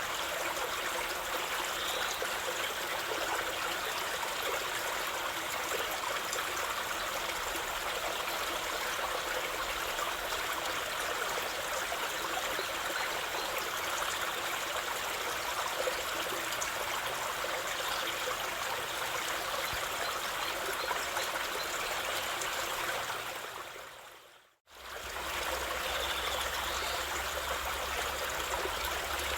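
A stream of water flowing steadily. About twenty-four seconds in it fades out to silence for a moment and then returns.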